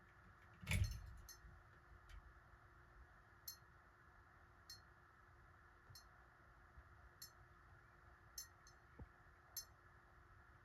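Faint, light clicks repeating about every second and a quarter over a low steady hum, with one dull knock about a second in.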